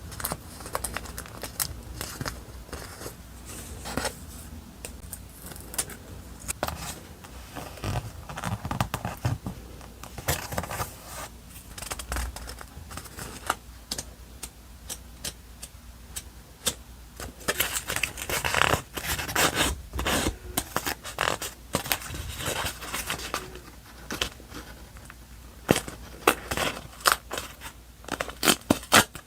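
Paper-crafting sounds: paper and stickers being handled, rubbed and scraped, with a longer stretch of rubbing about two-thirds through and quick runs of scissor snips near the end.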